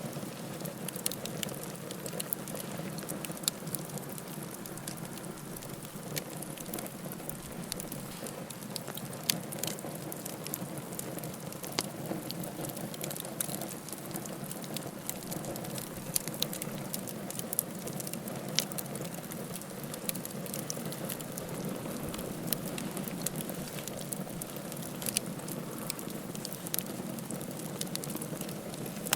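Campfire burning: a steady low rush of flame with frequent sharp crackles and pops scattered throughout.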